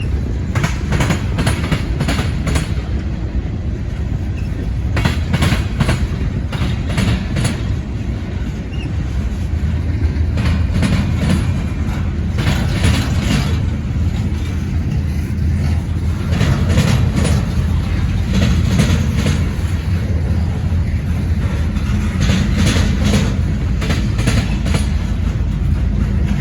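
Freight train of tank cars and box cars rolling past: a steady low rumble of the cars with repeated clickety-clack of wheels crossing rail joints, coming in clusters every few seconds.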